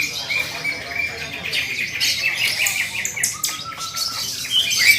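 Several caged green leafbirds (cucak ijo) singing at once: dense, overlapping high chattering phrases with sharp chips and clicks, some birds in the background.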